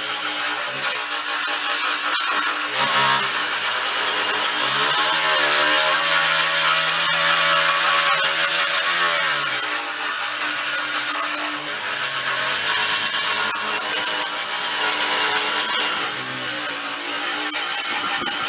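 Electric power tool with an abrasive sanding disc grinding body filler and paint off a car's steel body panel, a loud continuous grinding hiss. The motor's pitch sags and recovers several times as the disc is pressed into the metal and eased off.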